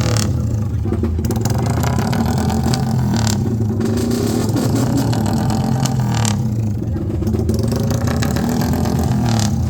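Vehicle engine running loudly and revving, its pitch rising and falling several times.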